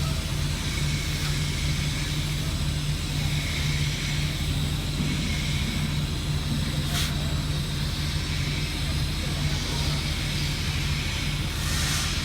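TIG welding on stainless steel: a steady low electrical hum with a hiss above it. A brief sharp click comes about seven seconds in, and a short burst of hiss near the end.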